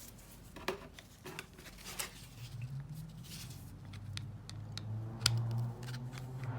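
Scattered small clicks and rustles of hands handling small oil-change parts (drain plug, washer, O-ring), the sharpest click about five seconds in. A low steady hum comes in about halfway through.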